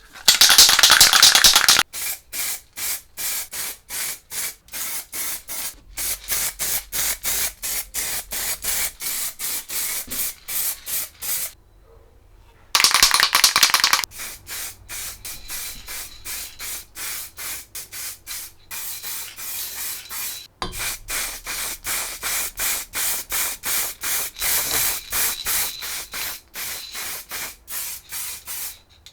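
Two short hissing spray bursts, each followed by steady back-and-forth rubbing strokes by hand, about two a second, as a surface is sprayed and then rubbed down.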